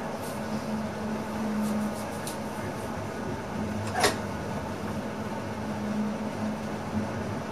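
Steady hum and running noise inside the driver's cab of an NS ICM electric multiple-unit train, with a single sharp click about four seconds in.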